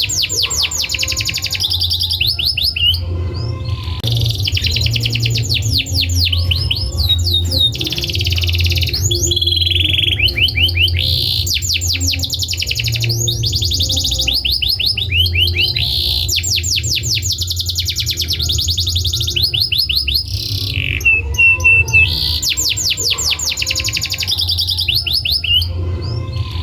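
Domestic canary singing without pause: long runs of fast repeated trills and rolls, one phrase following straight on from the next, over a steady low hum.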